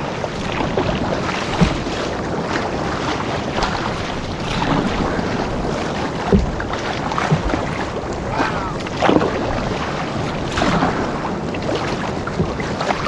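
Canoe moving through rough lake waves: water splashing and slapping around the hull, with wind buffeting the microphone.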